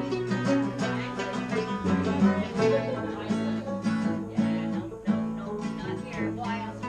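Bluegrass string band playing an instrumental break, with acoustic guitar and other plucked strings picking a quick run of notes.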